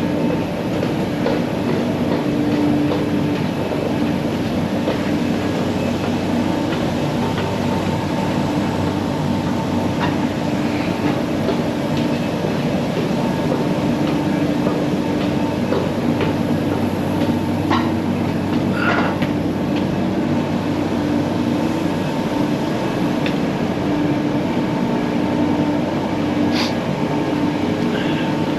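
Steady mechanical drone of ship or loading machinery running, with a constant low hum and a few faint clicks.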